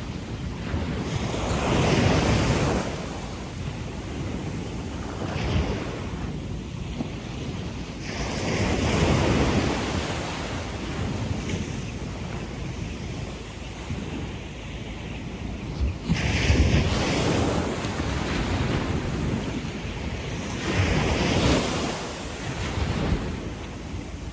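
Gentle surf on a sandy beach: waves breaking and washing up the sand in slow swells every several seconds, one arriving abruptly about two-thirds through. Wind buffets the microphone.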